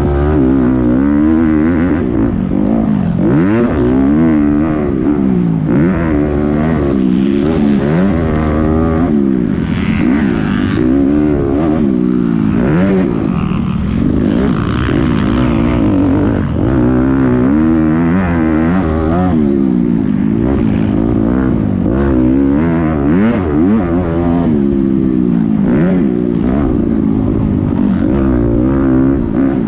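Several motocross dirt bikes racing at once, their engines revving up and dropping back over and over and overlapping.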